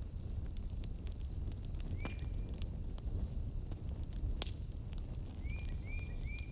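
Wood fire in a fireplace crackling, with scattered sharp pops over a low rumble and a steady high hiss. A short chirping call sounds once about two seconds in and three times in quick succession near the end.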